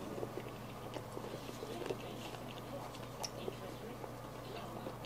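A person chewing a bite of a shawarma wrap in pita bread, close to the microphone, with small scattered mouth clicks, over a low steady hum.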